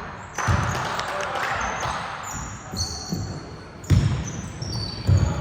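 A basketball bouncing on a hard court floor, making a few irregular thuds as it is dribbled and played.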